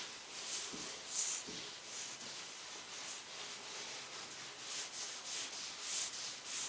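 Soft, irregular rubbing strokes, one or two a second, as Danish oil is wiped over a wooden butcher block, with a few light knocks in the first second and a half.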